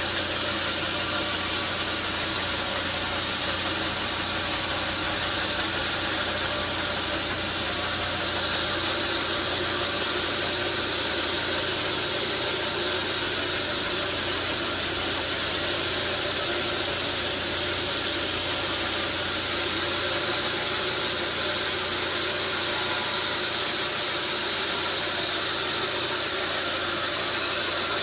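Sawmill machinery running steadily: an even mechanical noise with a low hum, unchanging throughout.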